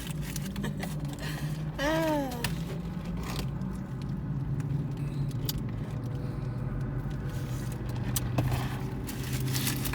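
A car engine idling, heard from inside the cabin as a steady low hum. A short hummed voice sound rises and falls about two seconds in.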